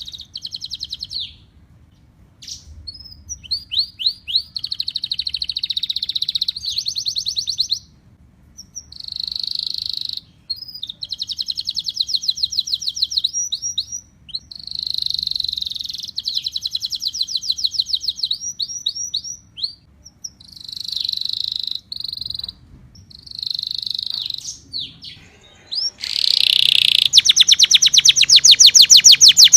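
Domestic canary singing: phrases of rapid trills and repeated chirps, separated by short pauses. A louder, faster continuous trill starts a few seconds before the end.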